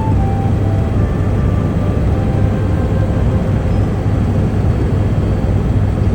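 Helicopter cabin noise in flight: a steady, loud drone of the turbine and rotors with a strong low hum.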